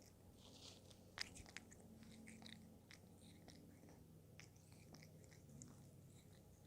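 A cat eating a treat close to the microphone: faint, irregular chewing clicks and small crunches, with a sharper click about a second in.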